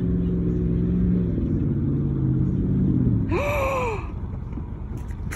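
A vehicle engine running at a steady pitch, then winding down and slowing over the next couple of seconds. A short shout from a person rises and falls about three seconds in.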